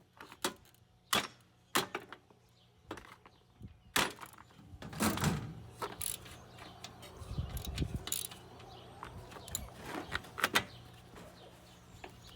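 Irregular metallic clicks and knocks of hand tools and metal parts being handled while work starts on taking the engine off a push mower, with a couple of duller thumps about five and seven and a half seconds in.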